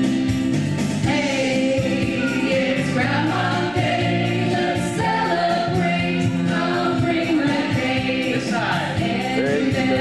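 Several voices singing together over band accompaniment with a steady beat.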